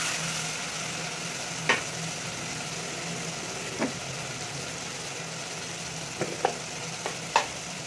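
Chopped onions and tomatoes frying in oil in an aluminium pot, a steady sizzle with half a dozen short sharp pops of spattering, over a low steady hum. A ladle stirs the mixture briefly at first.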